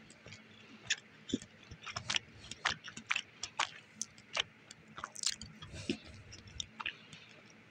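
A person chewing a piece of chocolate, with irregular mouth clicks coming several times a second.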